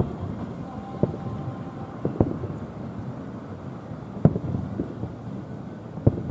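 Distant fireworks shells bursting: about six sharp bangs at irregular intervals, each followed by a rolling echo, over a low steady rumble.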